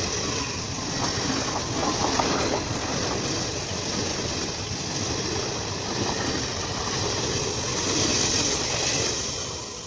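Jan Shatabdi Express passenger train running past at speed, its coaches' wheels making a steady rushing rumble on the track that begins to fade near the end.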